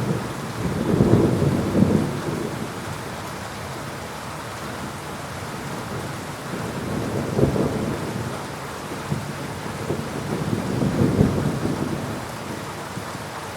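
Heavy rain falling steadily while thunder rumbles, swelling up and dying away three times: near the start, about halfway, and again near the end.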